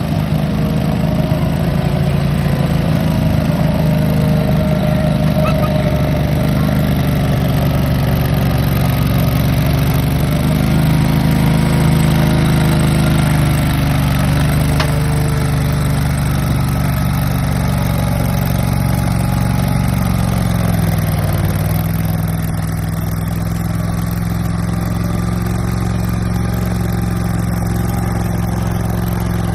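Simplicity Legacy garden tractor's engine running hard and steady at high revs while pulling the sled. About two-thirds of the way through its pitch drops, and it settles at a lower, steady speed.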